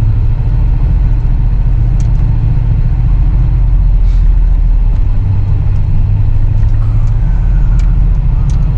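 Full-size 4x4 truck's engine and drivetrain, heard from inside the cab while it drives slowly over a snowy trail: a steady, loud low drone that dips slightly in pitch about halfway, with a few faint clicks.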